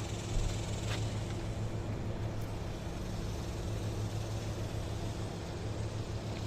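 Steady low engine hum, with a brief thump about half a second in.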